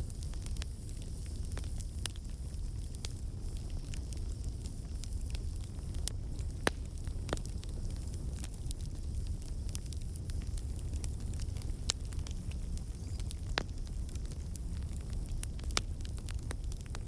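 Campfire of burning wood logs crackling: scattered sharp pops and snaps over a steady low rumble of the flames, with a few louder pops about 7 and 12 seconds in.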